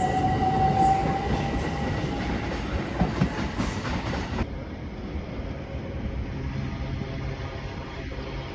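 Train running past on the rails with a high whine that rises slightly in pitch, then fades after about two seconds. A few wheel clacks over rail joints come around three seconds in, and the rumble slowly dies away.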